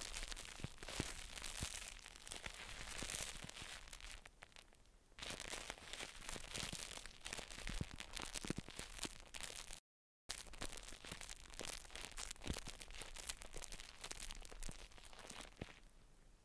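Quiet, close-miked crackly scratching and crinkling with many small taps and clicks, the ASMR handling sounds of a skincare and haircare routine. The sound drops out to dead silence for about half a second near the middle, then carries on.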